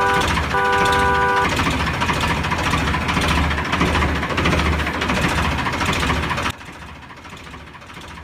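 Mini tractor's engine or motor running steadily with a pulsing low rumble, and a horn-like chord sounding briefly at the start. About six and a half seconds in the sound suddenly drops much quieter.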